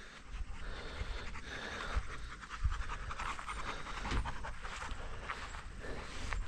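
A dog panting steadily close by, in quick repeated breaths.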